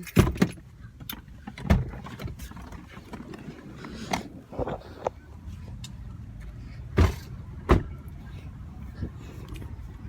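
Scattered knocks and thumps, with two louder thumps in quick succession a little past the middle, over a low steady rumble, as people get out of a parked car.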